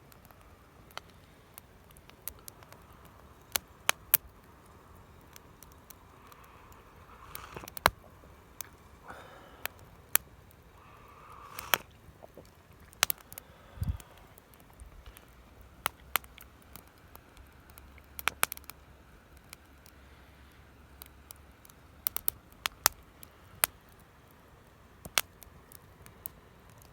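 Wood fire crackling, with irregular sharp pops and snaps from the burning wood. One dull low thump comes about halfway through.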